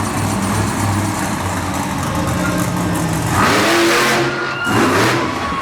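Bigfoot monster truck's engine running at a steady low note, then revved hard in rising bursts, two or three times, from a little past halfway.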